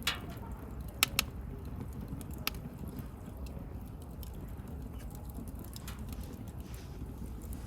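Wood bonfire burning: a steady low rumble of flame with sharp crackles and pops from the burning wood. There are two loud pops about a second in and another a little later.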